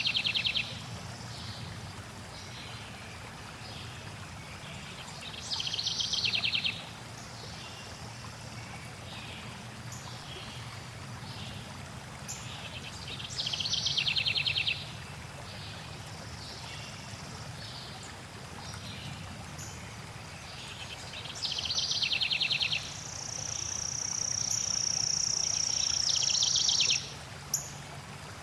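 A songbird repeats a short, loud trilled song four times, roughly every seven or eight seconds, with a few brief chips between, over a steady low rush of flowing water. Near the end a long, steady high whistle runs for about four seconds, overlapping the last song.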